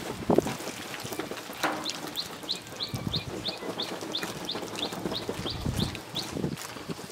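A bird chirping over and over, about three short high chirps a second. Under it are soft, wet sounds of hands rubbing seasoning paste into a split pig carcass.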